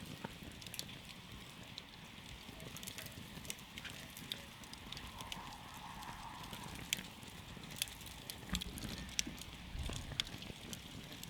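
Wood campfire burning, crackling with many irregular sharp pops over a soft steady hiss and low rumble.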